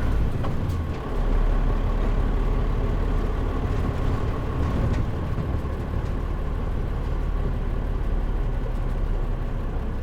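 Mitsubishi Fuso Aero Star (KL-MP37JM) city bus heard from inside the cabin with the air conditioning off: its diesel engine and drivetrain running as the bus drives, the low rumble picking up about a second in.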